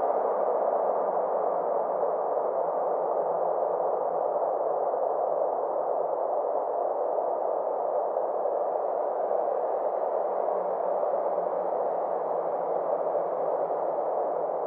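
Steady synthesized space ambience: a continuous, even wash of filtered noise centred in the middle range, with faint slow sweeping tones drifting over it.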